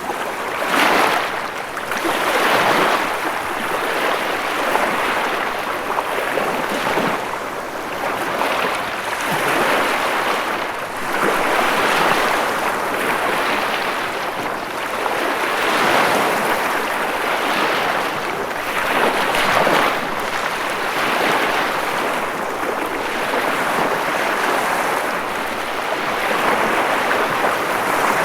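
Ocean waves washing onto a shore in a continuous rush of surf that swells and eases every couple of seconds.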